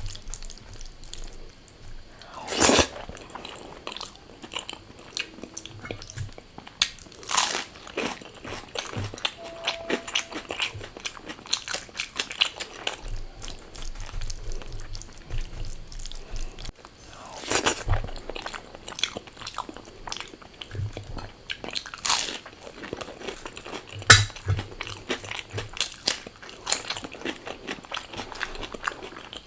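Close-miked mouth sounds of eating crisp fried food: several loud crunching bites a few seconds apart, with continuous chewing and small crackles in between.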